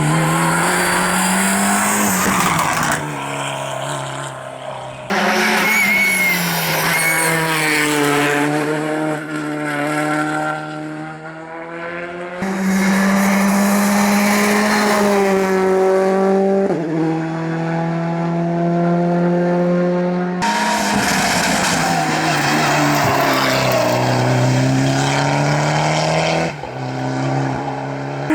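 Rally cars at full throttle on a special stage, engines revving up and dropping back through gear changes. The sound changes abruptly every few seconds as one car's run gives way to another's.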